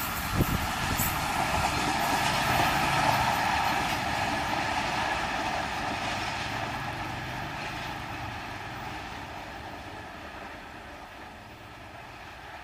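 Express passenger train rolling away along the track, the noise of its wheels on the rails fading steadily as it recedes. There is a knock from the wheels near the start.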